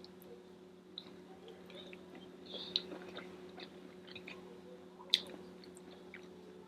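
Quiet chewing and mouth sounds from someone eating, with a few soft crunches and clicks, the sharpest about five seconds in, over a faint steady low hum.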